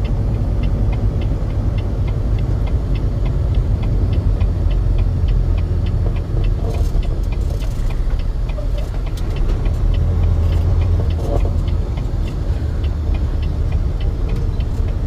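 Truck engine and road rumble heard from inside the cab, with a steady ticking about three times a second over it.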